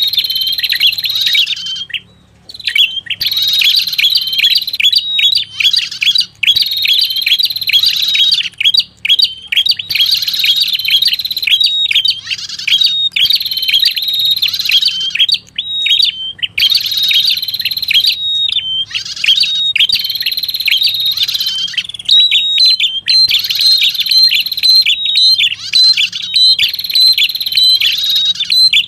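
Lure recording of red-headed prenjak song (a prinia-type warbler), played on a loop: rapid, high, chirping trills in phrases of about two seconds, repeating with short breaks.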